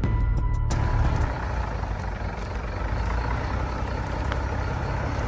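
Background music cuts off under a second in, giving way to a heavy truck's engine running steadily with a dense, even rumble.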